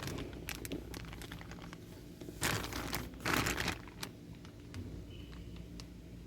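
Packaging crinkling and rustling as a new automatic-transmission inhibitor switch is handled and unwrapped, with a few light clicks and two louder bursts of crinkling around the middle.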